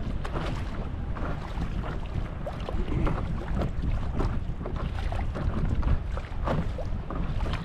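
Wind buffeting the microphone in a steady low rumble, with irregular splashing and lapping of choppy lake water.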